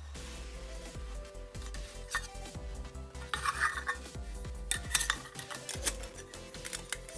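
Metal camp cookware being handled: repeated clinks and knocks of metal pot parts, some leaving a short ringing tone.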